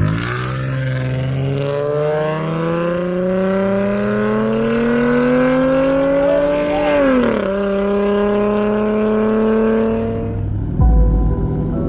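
Car engine accelerating hard, its pitch climbing steadily through one gear, dropping sharply at an upshift about seven seconds in, then pulling on in the next gear before fading away. A loud low rumble comes in near the end.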